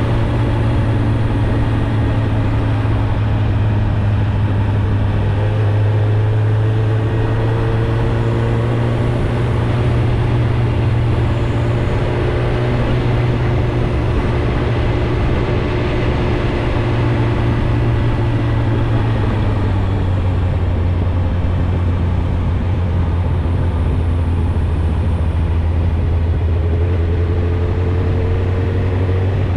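Suzuki GSX-R1000's inline-four engine on its stock exhaust, running steadily while riding at an even pace. Its note drops to a lower pitch about two-thirds of the way through and then holds there.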